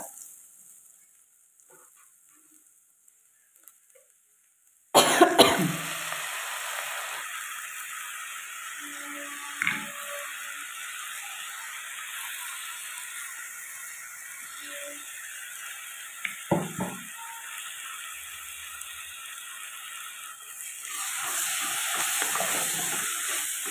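Nearly silent for the first few seconds, then a sudden loud sizzle as ground tomato paste hits the hot oil and fried onions in the pot, settling into a steady frying hiss with a couple of light knocks. Near the end a wooden spatula stirs the mixture and the sizzling grows louder.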